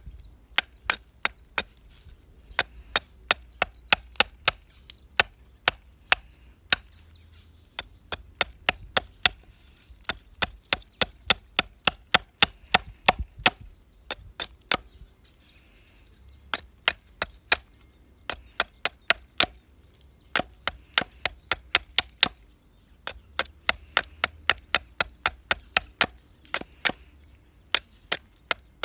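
Repeated sharp chopping strikes into resin-hardened dead pine (fatwood), about three or four a second, in runs of a few seconds with brief pauses between them.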